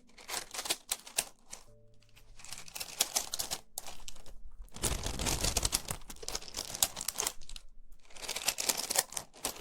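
Small colourful stones being squeezed and rubbed in the hands as an ASMR trigger, giving dense rapid clicking and crackling in several bursts with short pauses, the loudest about five seconds in.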